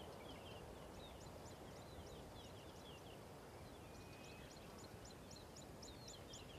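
Birds chirping faintly, a quick run of short high calls several times a second, over a low steady background hiss.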